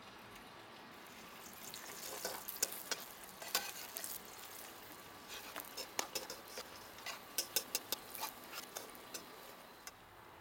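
A paratha frying in hot oil in a wok: sizzling with many sharp crackles and pops from about two seconds in, as a steel spatula presses it into the pan.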